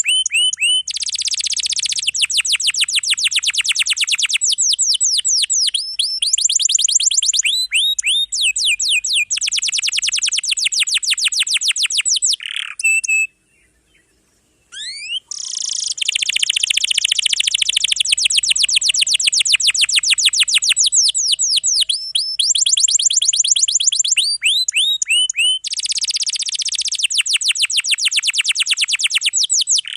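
Domestic canary singing long rolls: fast trills of rapidly repeated high notes lasting a few seconds each, linked by single whistled notes, with a short pause about halfway through.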